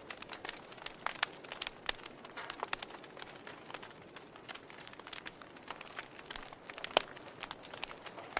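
Wood fire crackling in a fireplace: irregular sharp pops and snaps over a soft hiss, with the loudest pop about seven seconds in.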